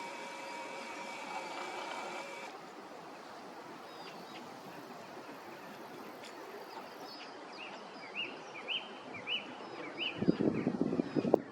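Outdoor riverside ambience: a steady hiss with a faint hum in the first couple of seconds, then a small bird chirping a quick run of about six short rising notes. Near the end a loud rough crackling rumble breaks in.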